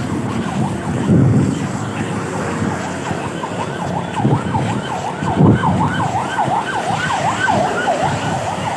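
Ambulance siren on a fast yelp, about three rising-and-falling wails a second, growing louder from about three seconds in. Underneath is the low rumble of road traffic, which swells briefly a few times.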